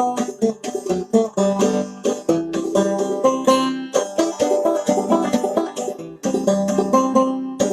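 Solo five-string banjo played in old-time clawhammer style: a fast fiddle tune, with quick plucked notes and the steady brushed strum of the frailing stroke.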